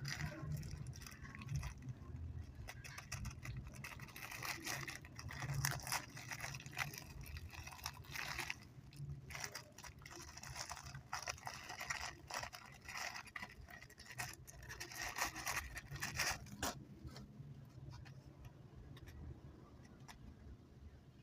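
Close-miked eating sounds of chewy chocolate candies: a dense run of irregular clicks and smacks that thins out after about 17 seconds.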